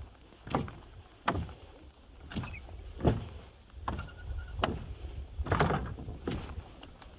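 Footsteps of a person walking down a mountain trail, about nine even steps with a sharp scuffing crunch each, over a low rumble of wind on the microphone.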